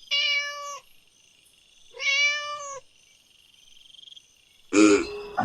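Domestic cat meowing twice, each meow under a second long, about two seconds apart. Near the end a louder, lower-pitched animal call begins.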